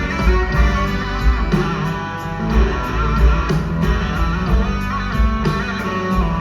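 Live rock band playing an instrumental passage: electric guitar to the fore over bass and drums, with a steady beat.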